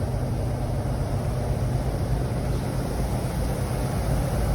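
Steady low mechanical rumble with a faint hum, unchanging throughout.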